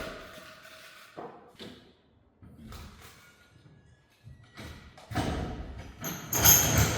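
Wooden blocks knocked and thudding as they are handled and stacked for a jack: a string of separate knocks, then a louder clatter about six seconds in with a high ringing.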